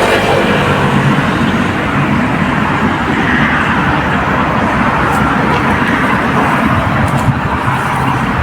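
Road traffic noise: vehicle engine and tyre noise, loud and steady.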